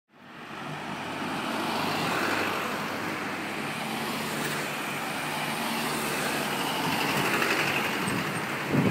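Steady outdoor ambience of road traffic, a continuous hiss with a low engine hum, fading in at the start.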